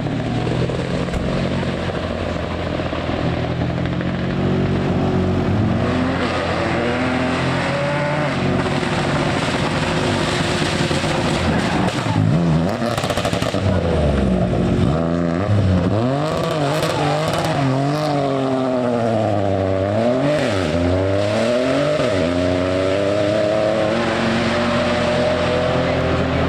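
Rally car engine revving, its pitch rising and falling again and again through the middle as it accelerates, shifts and lifts off. A steadier engine hum sits underneath near the start and end.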